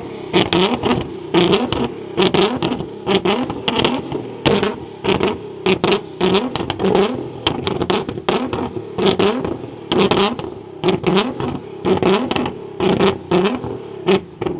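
A car engine revved over and over in short blips, about one a second, with sharp cracks between the blips. It is held on constant throttle blips instead of idling; a bystander suggests it probably has to keep revving to get the gas through to the exhaust.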